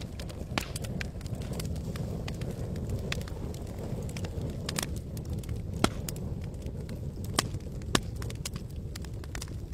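Campfire burning: wood crackling with frequent sharp pops over a steady low rush. The loudest pops come about six seconds in and twice more around seven and a half to eight seconds.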